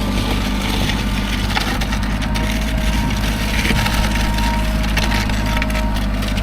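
Rural King RK24 subcompact tractor's diesel engine running steadily under load, with a continuous crunching, crackling scrape as the rear blade pushes snow.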